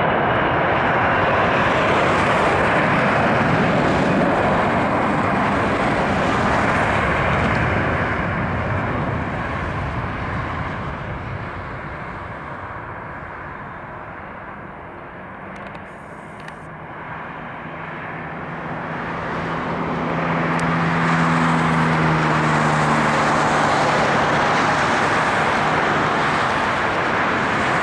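Jet noise from the Boeing 727-21's three Pratt & Whitney JT8D turbofans as the airliner lands. The noise fades to its lowest about halfway through, then swells loud again for the last third.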